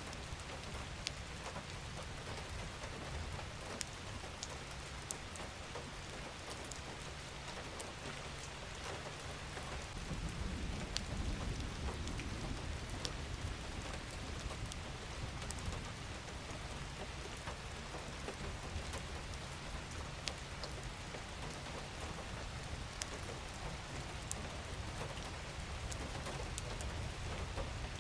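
Steady rain falling on a surface, with individual drops ticking here and there. A low rumble swells about ten seconds in and then eases back.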